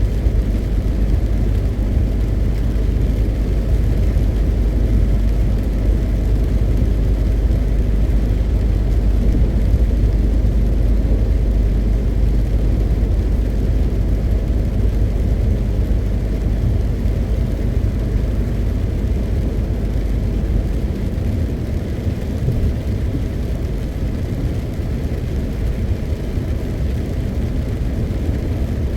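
MAN TGX 520 truck's diesel engine and tyres droning steadily as it drives, a low rumble with the deepest part easing slightly about three quarters of the way through.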